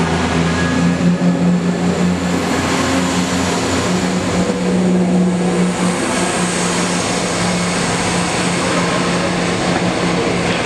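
Diesel multiple unit passing close by at speed: steady underfloor diesel engine note with wheels running on the rails, a deeper hum dropping away about four seconds in.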